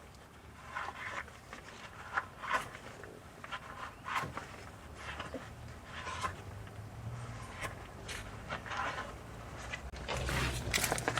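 Scattered short rustles and scrapes of gloved hands wiping with paper towels and handling parts. A faint low hum comes in near the end.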